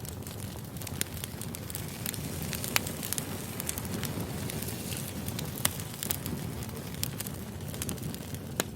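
Wood fire burning: a steady low rumble with irregular sharp crackles and pops from the burning logs.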